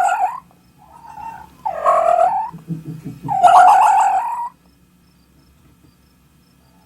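An animal calling: a call fading out at the start, then two loud calls with a quick rattling, gurgling texture, the second ending about four and a half seconds in.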